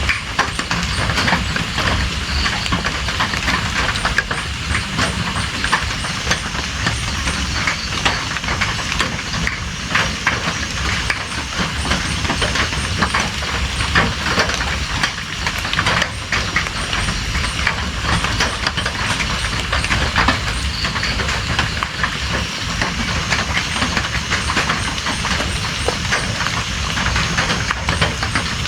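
Steady rain falling, a dense hiss made of countless small drop ticks with a low rumble beneath.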